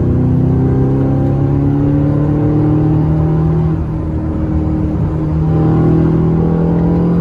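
2010 Chevrolet Camaro SS 6.2-litre V8 with a modified Borla exhaust, pulling under acceleration, heard from inside the cabin. The engine note climbs slowly, drops away briefly about four seconds in, then comes back.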